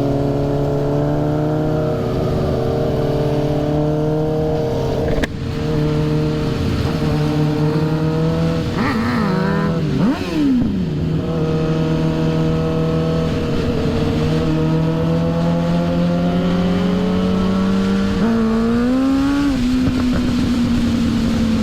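Freshly rebuilt 2006 Suzuki GSX-R 750's inline-four engine running under way at a mostly steady pitch. The pitch drops sharply and comes back about ten seconds in, and rises briefly near the end.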